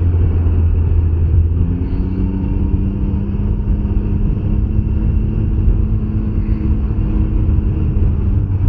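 The 2021 Can-Am Ryker 900's three-cylinder engine running while the trike is ridden along, over a steady low rumble. The engine tone drops away briefly at the start and picks up again under steady throttle less than two seconds in.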